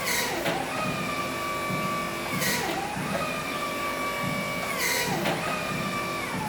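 Electric motor whine from a Crown electric reach truck: steady high tones that dip in pitch and pick up again about every two and a half seconds, each change with a short hiss.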